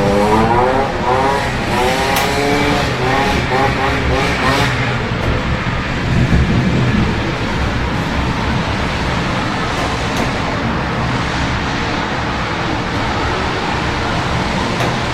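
A vehicle engine revving in the first few seconds, its pitch rising and falling, over a steady hiss of rain and city traffic. There is a brief low rumble about six seconds in, and then the hiss carries on.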